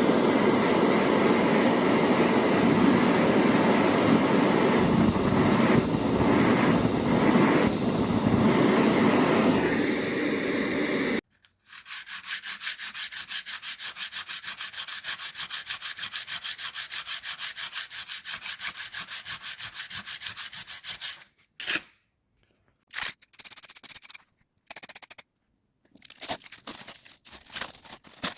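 Loud, steady rasping noise, like abrasive rubbing or sanding, that stops abruptly about eleven seconds in. It gives way to a fast, evenly repeating rasp, then a few short rasping bursts near the end.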